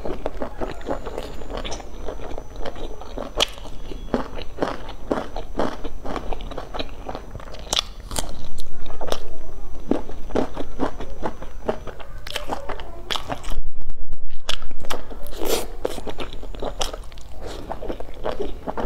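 Close-up chewing of a pan-fried stuffed bun with a crisp browned bottom: a steady run of wet mouth clicks and soft crunches, with two louder stretches about eight and thirteen seconds in.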